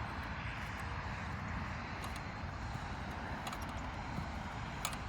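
Steady outdoor background noise, like distant traffic or an aircraft, with a few faint clicks.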